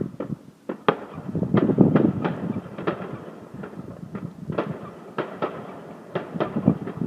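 Fireworks going off: an irregular run of sharp bangs and cracks, several a second, over a steady rumble of further explosions.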